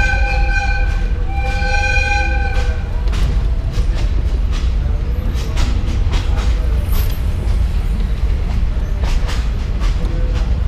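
A train horn sounds two long blasts, the first ending about a second in and the second near the three-second mark. Then the moving train rumbles steadily, with irregular clicks and knocks from the wheels over the rails.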